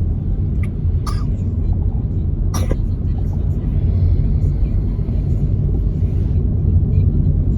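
Car driving on a wet road, heard from inside the cabin: a steady low rumble of engine and tyres, with a few brief sharp clicks about one and two and a half seconds in.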